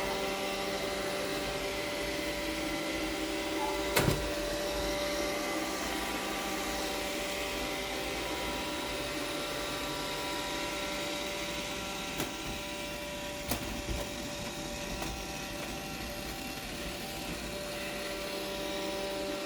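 Robot vacuum cleaner running steadily, its motor and brushes making a constant whirring hum with several steady whining tones. A few sharp knocks cut in, the loudest about four seconds in and two more later on.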